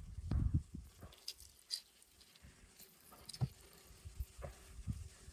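Hands squeezing a half lemon over the chicken marinade and handling it: irregular soft squishes and low knocks, the loudest cluster just at the start, with scattered small clicks.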